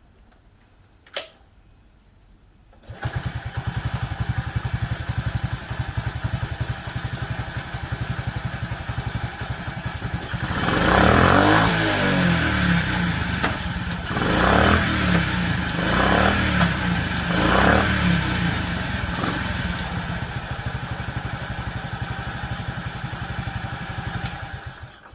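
Honda AA01E 49cc single-cylinder four-stroke motorcycle engine started for a running test. After a click about a second in, it catches about three seconds in and idles with an even beat. It is revved in several quick blips in the middle, settles back to idle and is switched off near the end.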